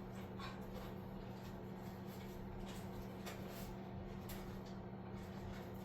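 Faint scattered clicks and rustles of hands working wiring and a rubber grommet into place, over a steady low hum.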